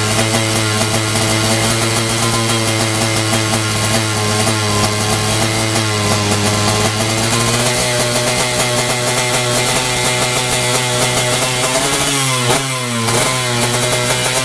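A 116cc two-stroke drag-race motorcycle engine running steadily at fast revs. Near the end its revs dip once and pick back up.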